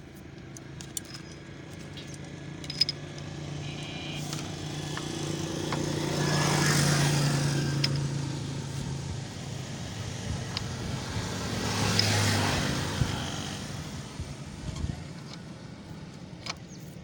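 Two motor vehicles passing one after the other, each swelling and fading away, the first loudest about seven seconds in and the second about twelve seconds in, with a few small clicks and knocks between them.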